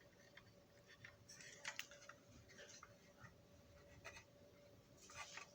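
A few faint clicks and scratches of a small rivet being handled and worked into its hole in a Marx toy switcher locomotive, against near silence.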